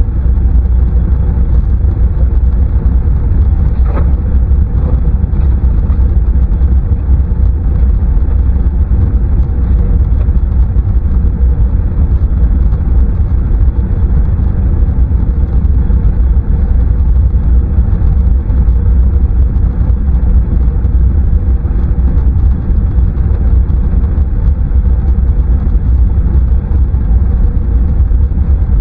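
Deep, steady rumble of an Airbus A330 jet airliner's engines passing low overhead, loud throughout, with a faint steady whine above the rumble.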